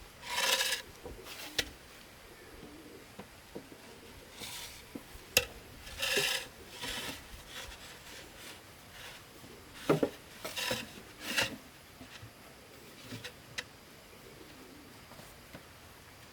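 Hand work on bamboo or wood: short, separate bouts of scraping or rasping, with a few sharp knocks between them.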